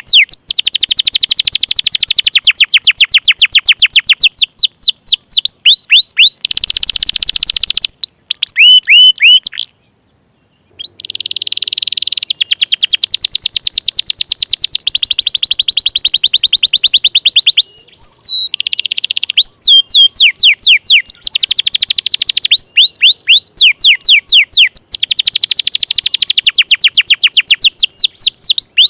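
Domestic canary singing a long, loud song of rapid trills, each tour a quick run of repeated high notes, switching between different trill types. The song breaks off for about a second roughly a third of the way through, then carries on.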